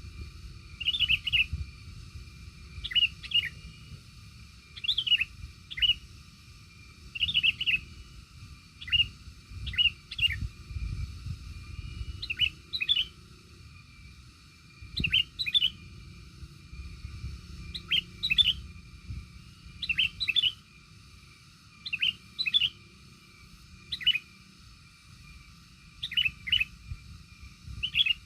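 A small bird calling: short, sharp chirps in quick pairs and triplets, repeated every second or two, over a low rumble.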